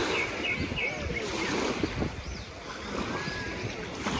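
Sea surf washing on the beach with wind on the microphone, and faint short high-pitched calls scattered through it.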